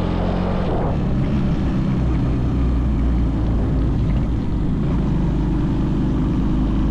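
Mini bike's small engine running steadily while riding at speed, with wind rushing over the microphone.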